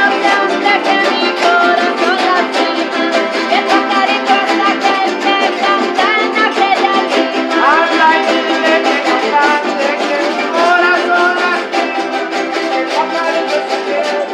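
Several jaranas jarochas, small Mexican eight-string guitars, strummed together in a fast, steady rhythm.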